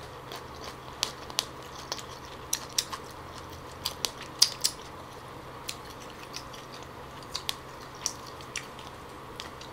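Close-miked chewing of a lettuce-wrapped mouthful of steamed boxfish: irregular sharp, wet clicks and crunches, some louder than others, with chopsticks picking at the fish.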